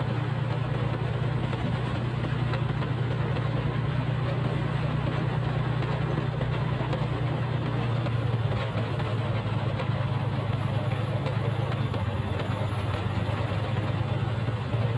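Motorcycle engine running steadily with a low, even hum, under a constant rushing noise.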